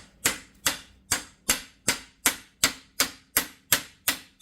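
Hammer driving a new universal joint's bearing cap into the front axle yoke, metal on metal: a steady run of sharp, ringing strikes, about two and a half a second.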